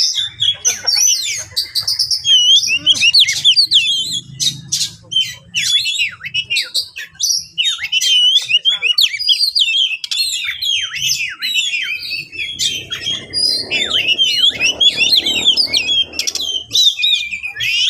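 Oriental magpie-robin (kacer) singing a fast, unbroken, varied song of whistles, chirps and quick falling notes. It is the excited, combative singing that keepers call 'ngeplay' or 'narung'.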